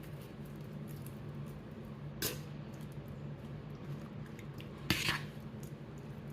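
Kitchenware being handled, with two sharp clinks, about two seconds in and again about five seconds in, over a faint steady hum.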